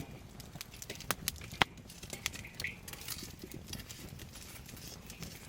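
Scattered sharp clicks and knocks, the loudest about a second and a half in, over a low steady rumble.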